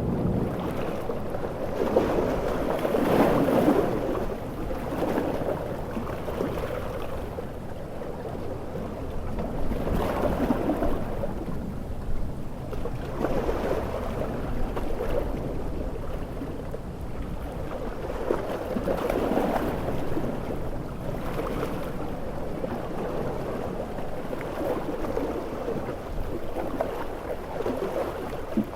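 Large ocean waves surging and breaking, swelling every few seconds over a steady wash of heavy rain and wind.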